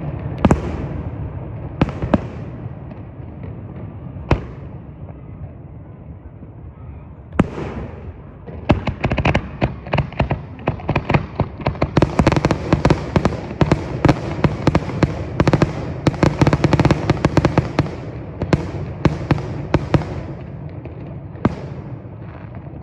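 Fireworks going off. A few separate bangs come first, then from about a third of the way in a dense run of rapid pops and crackles, which thins out near the end.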